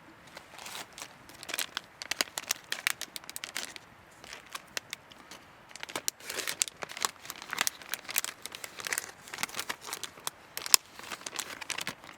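Irregular crinkling and crackling in dense clusters of sharp clicks, easing off briefly a few seconds in before picking up again.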